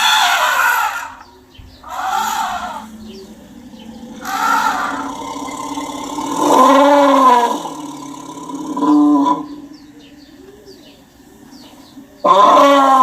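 Elephants calling: a series of loud trumpet calls, each rising and then falling in pitch, with lower, deeper calls between them over a steady low rumble.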